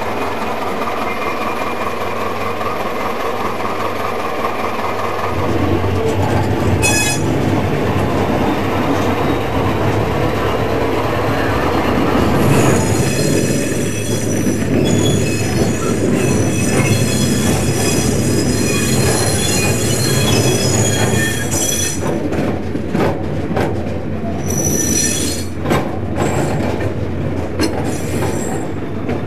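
Train running on a heritage railway line with a steady low rumble. From about halfway through, the wheels squeal on the rails in high whistling tones that come and go towards the end.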